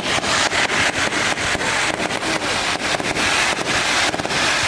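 Aerial fireworks crackling: a dense run of sharp pops and snaps, several a second, over a steady hiss.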